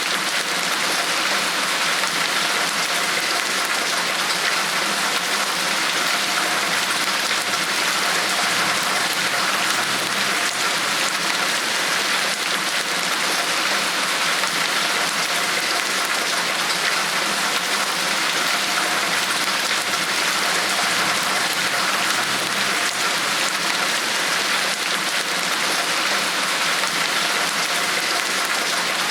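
Steady rainfall: an even hiss of many raindrops falling on a surface, unchanging throughout.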